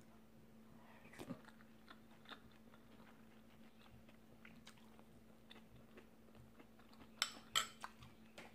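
A person chewing a mouthful of soft cooked fish and vegetables close to the microphone: small wet mouth clicks throughout, with a few louder clicks about a second in and twice near the end.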